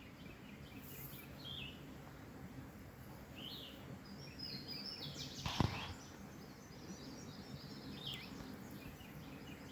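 Birds chirping now and then over faint steady background noise, with a single sharp knock a little past halfway.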